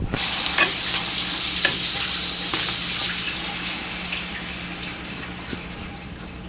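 Water hissing in the kitchen, starting suddenly and fading slowly over several seconds, with a few light clicks.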